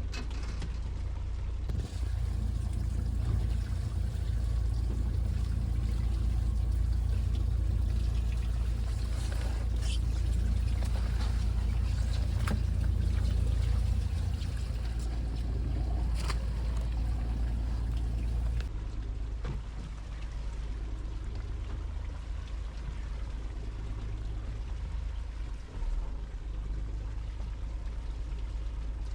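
Fishing boat's engine running steadily under a hiss of pouring rain and running water; the low rumble drops back about two-thirds of the way through.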